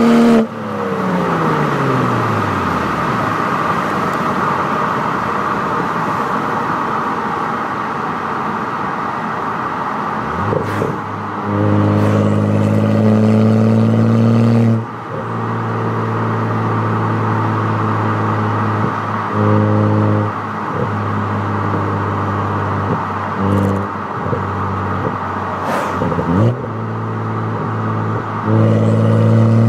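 BMW E92 335xi's N55 turbocharged straight-six, heard from outside through an aftermarket quad-tip exhaust and BMS downpipe. The engine note falls away at the start, then settles into a steady exhaust sound, with a deeper drone that comes and goes several times.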